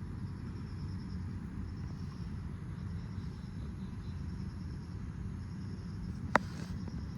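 Outdoor ambience: a steady low rumble with insects chirring in a faint, pulsing high trill, and one sharp click about six seconds in.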